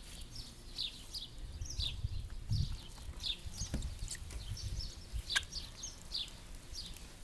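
A bird chirping over and over, short high notes that slide downward, about one or two a second, over a low rumble and a few faint clicks.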